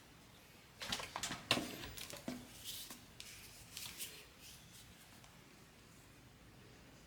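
Handling noises: a quick run of clicks and rustles starting about a second in, tailing off after about four seconds, then quiet room tone.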